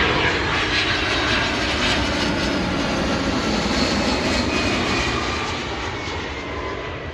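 Jet engines of a DHL cargo plane passing low on its landing approach: loud, steady jet noise with a faint high whine, fading gradually over the last couple of seconds.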